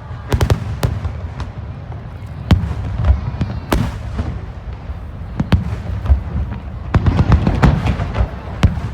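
Aerial fireworks bursting, a string of sharp bangs and crackles over a steady low rumble, with a dense flurry of cracks near the end.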